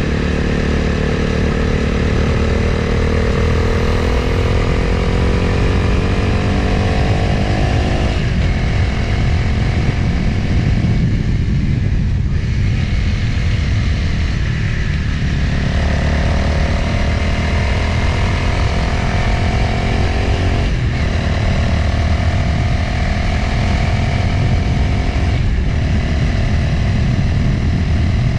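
Motorcycle engine heard while riding, with wind rushing over the microphone: the engine note climbs steadily for several seconds, drops about eight seconds in and runs softer for a few seconds, then pulls again at a steady pitch, broken by two brief dips near the end.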